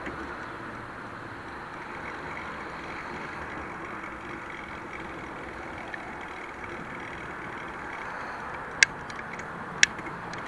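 Steady rushing noise of riding a bicycle, largely wind on the microphone, with two sharp clicks about a second apart near the end.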